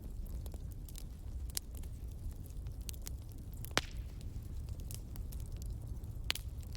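Wood fire crackling: scattered sharp pops over a low, steady rumble, with two louder pops, one about halfway through and one near the end.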